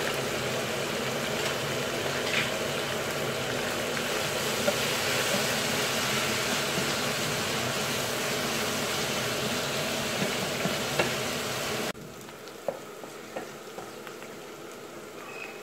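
Minced chicken frying in hot oil in a non-stick pan: a steady sizzle, with a few light knocks of a wooden spatula stirring the mince. About twelve seconds in it drops suddenly to a much quieter sizzle.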